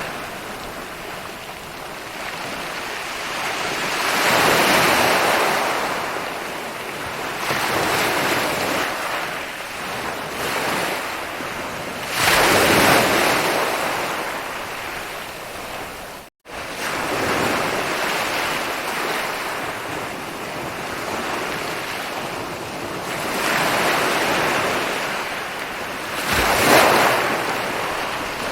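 Ocean waves rolling in and breaking on a beach, the surf swelling and fading every few seconds, with two stronger breakers about twelve and twenty-six seconds in. The sound cuts out for a moment about sixteen seconds in.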